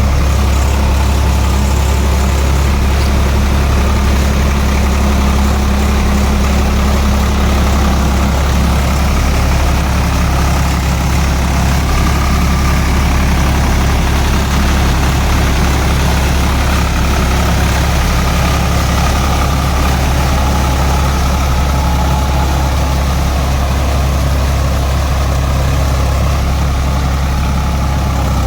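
Swaraj 855 FE tractor's three-cylinder diesel engine running steadily with a deep, even hum.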